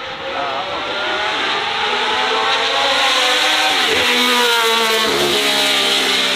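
Racing car engine accelerating hard, its pitch climbing, then dropping sharply and rising again at gear changes about four and five seconds in.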